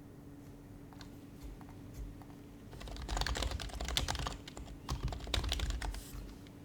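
Typing on an HHKB Professional HYBRID Type-S keyboard, whose Topre switches are silenced: a few scattered keystrokes, then two quick runs of typing about three and five seconds in.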